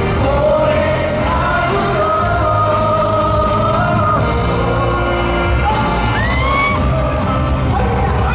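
Live band music with a male singer holding long sung notes, heard from the audience in a large concert hall. There are a few short rising glides about six seconds in.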